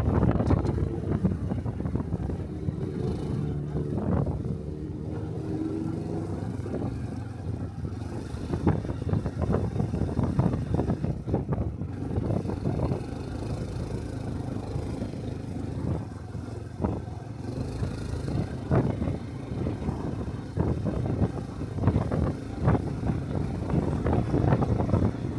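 A Honda Cub-series 125 cc single-cylinder motorcycle engine running steadily while riding, with wind buffeting the rider-worn microphone.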